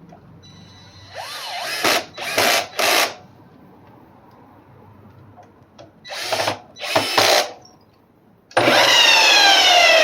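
Power tool motor run in short bursts, three times and then twice more. Near the end it starts again and runs steadily, its pitch slowly falling.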